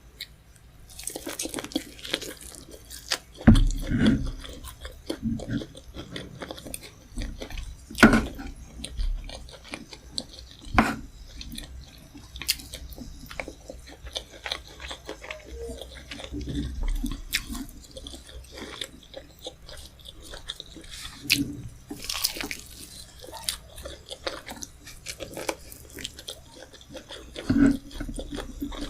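Close-miked mouth sounds of a person eating rice, tomato stew, chicken and fish head: chewing and biting, with irregular wet clicks and smacks, a few of them sharper and louder.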